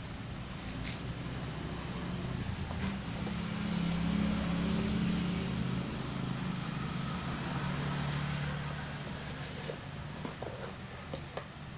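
Low engine hum of a passing motor vehicle, growing louder about three seconds in and fading away over the next several seconds.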